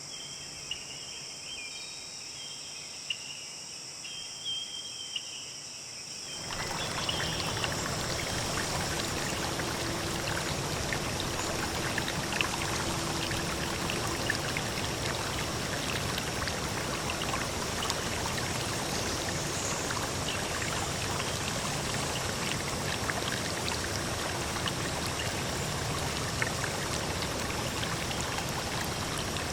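Insects chirping with a steady high-pitched drone. About six seconds in, the sound cuts abruptly to loud, steady running water that continues.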